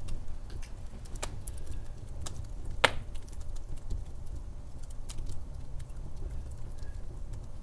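Wood fire burning in a fireplace: a steady low rumble of flames with scattered crackles and one sharp pop about three seconds in.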